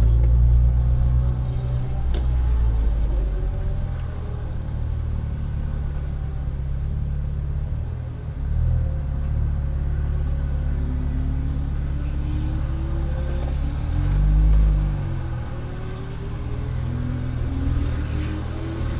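Renault Clio RS IV's turbocharged 1.6-litre four-cylinder engine running with a low rumble, its note rising as the car accelerates in the second half.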